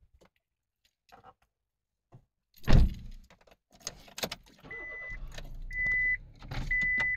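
A loud thump a little under three seconds in, then the Honda Life's small three-cylinder engine running at idle from about halfway through. Over it, a steady electronic warning chime beeps about once a second.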